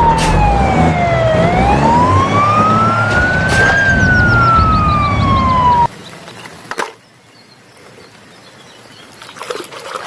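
Electronic wailing siren, a single tone sliding slowly down, up and down again over a low rumble, cutting off suddenly about six seconds in. After that it is much quieter, with a single click about a second later.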